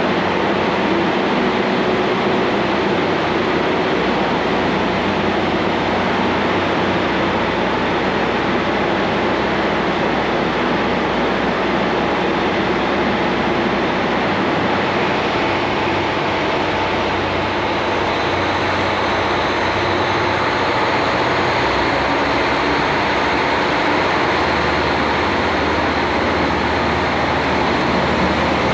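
JR Hokkaido KiHa 40 diesel railcar running, a loud, steady engine noise with a faint hum of steady tones and no change in pace.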